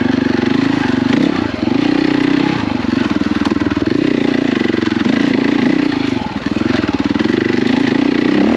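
KTM 450 EXC enduro dirt bike's four-stroke single-cylinder engine running under riding load, its revs rising and falling with the throttle and dipping briefly twice.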